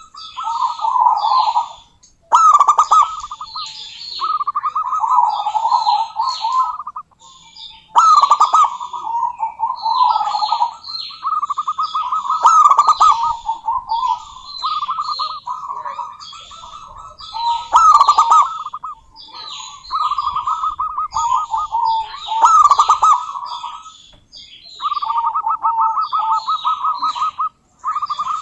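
Zebra dove (perkutut) cooing in repeated rippling, trilled phrases, a new phrase every couple of seconds. Sharp higher chirps are mixed in over the cooing.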